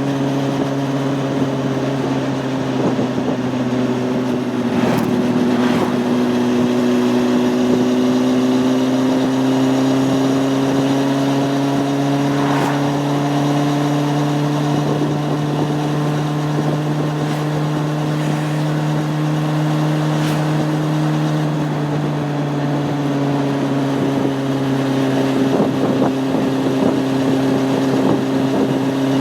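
Honda CB600F Hornet's inline-four engine running steadily while riding. Its pitch rises slightly a few seconds in, holds, and eases off a little after about twenty seconds.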